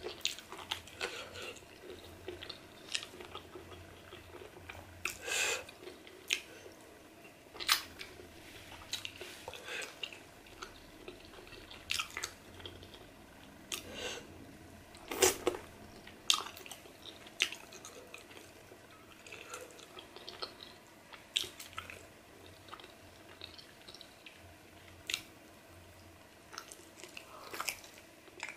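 Close-up chewing and mouth sounds of a person eating pieces of pork with her fingers: wet, irregular smacks and clicks, a few of them louder.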